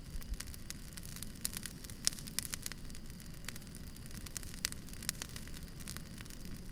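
Wood campfire crackling: irregular, sharp pops and snaps come several times a second over a steady low rumble from the fire.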